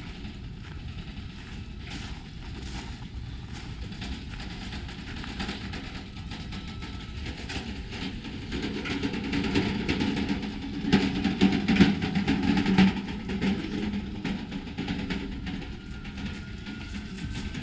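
A motor vehicle's engine running, swelling up for a few seconds about halfway through and then fading away, over steady outdoor background noise with scattered small clicks and crunches.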